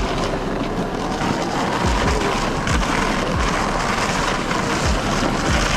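Traxxas XRT radio-controlled truck's electric motor whining steadily as it tows a sled over snow, the whine rising in pitch near the end, with irregular low thumps.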